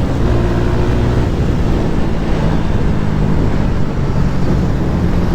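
Motorcycle engine running at a fairly steady pitch while riding, under a constant rush of wind and road noise.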